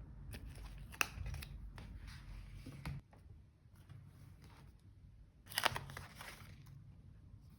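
Scissors snipping paper in a few short, crisp cuts, with a louder run of snips about five and a half seconds in.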